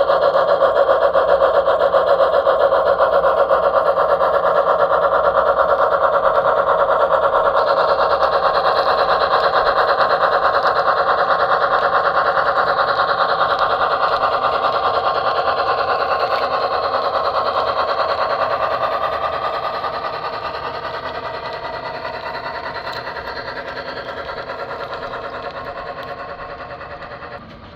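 Model train running along the layout's track, its motor and wheels making a steady fast rhythmic clatter that fades away over the last third or so.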